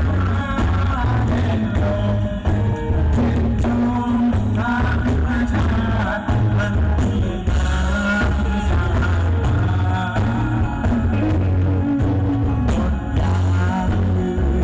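Live rock band playing with a singer, the bass strong and steady.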